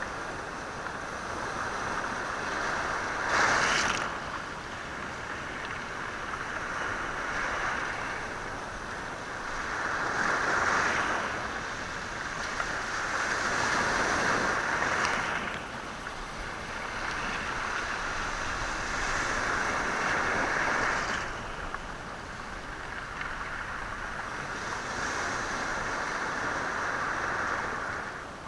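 Sea waves washing over a stony shore, the stones rattling as the water surges in and draws back. The surges swell and fade every few seconds, with a short sharp one about three and a half seconds in that is the loudest.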